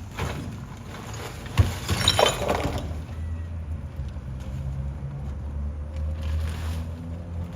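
A sharp bang about one and a half seconds in and a brief clatter, then a truck's engine running steadily with a low hum.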